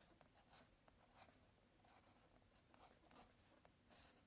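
Near silence: room tone with a few faint, brief scratchy noises scattered through it.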